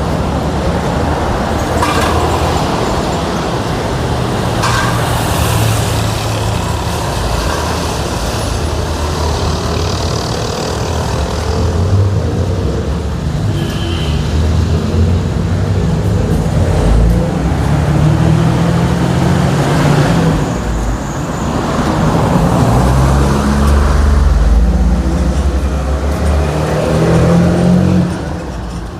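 City street traffic: motor vehicle engines running and passing, a steady low rumble that grows louder about two-thirds of the way through, with a few sharp clicks.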